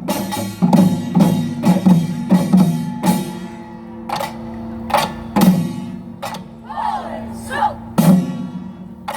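Utdari samul nori percussion playing: sharp drum and gong strokes about two a second at first, then slower and sparser, over a lingering low ringing hum.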